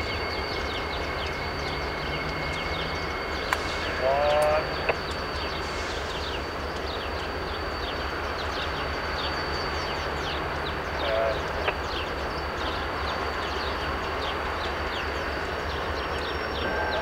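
Steady low rumble of a freight train moving slowly through the rail yard at a distance, with birds chirping throughout and a thin steady high tone. A short wavering call stands out about four seconds in, and a weaker one near eleven seconds.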